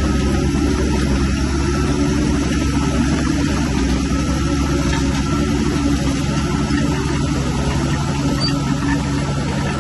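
Diesel engine of heavy earth-moving equipment running steadily under work.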